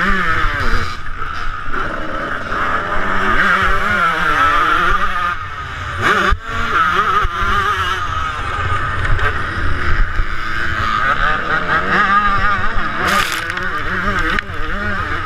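A 1998 Suzuki RM125 two-stroke dirt bike engine is revving hard, its pitch climbing and falling as the throttle opens and closes through the gears. Wind rushes over the microphone throughout. The engine drops off briefly about six seconds in.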